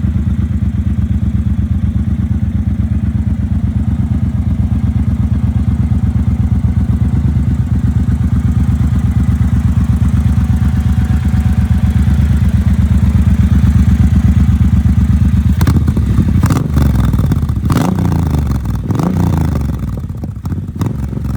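Triumph Bobber motorcycle's parallel-twin engine idling with a steady low pulse. About three-quarters of the way in, the revs rise and fall with some clatter, and the sound fades near the end.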